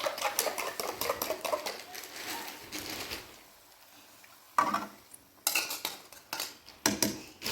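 Metal utensils clinking and scraping against cookware: a run of quick small clicks, a short pause, then a few louder clatters in the second half.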